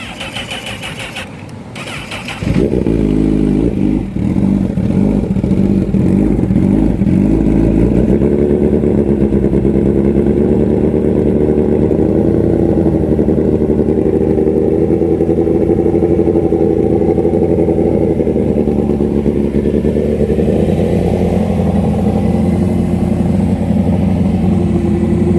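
Honda CBR1000RR inline-four with an SC-Project CR-T slip-on exhaust, starting up: a quieter starter sound, then the engine catches about two and a half seconds in. It runs unevenly for a few seconds, then settles into a steady idle.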